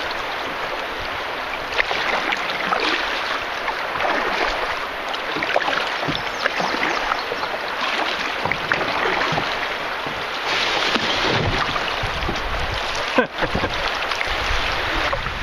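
River water rushing and splashing around a canoe, with many small splashes throughout. A low rumble of wind on the microphone comes in toward the end.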